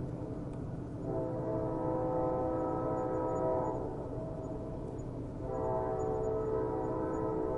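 Train horn sounding two long blasts, the first lasting about three seconds and the second starting about five and a half seconds in and still sounding at the end, over a steady low rumble of the train.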